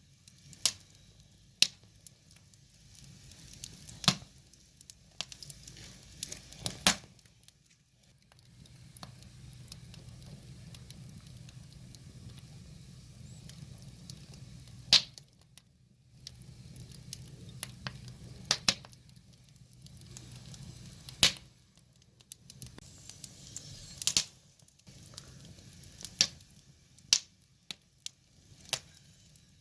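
Wood fire crackling, with sharp pops and snaps at irregular intervals over a low rumble of flames that comes and goes.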